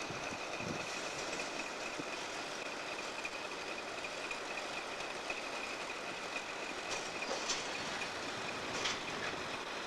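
USAF Engine 4040, a switching locomotive, moving a train of coal hopper cars along the track: steady rolling noise of the wheels, with a thin high steady tone throughout and a few sharp clicks in the second half.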